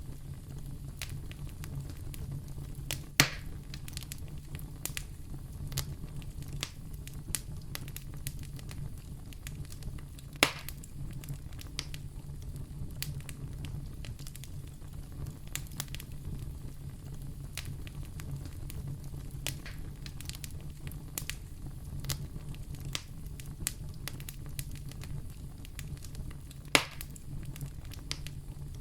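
Fire crackling in a fireplace: a steady low rumble with frequent small crackles and three sharp, louder pops, a few seconds in, about ten seconds in and near the end.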